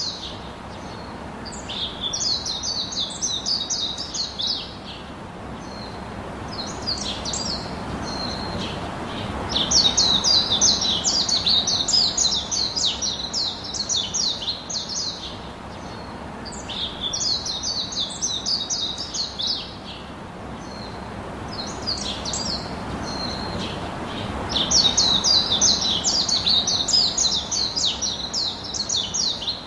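Songbird singing: runs of rapid high chirps lasting a few seconds each, repeated every several seconds over a steady background hiss.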